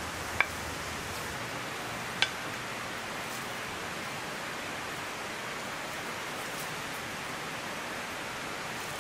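Steady hiss of rain, with two sharp clinks of a serving spatula against a ceramic plate, the first about half a second in and the second about two seconds in, each ringing briefly.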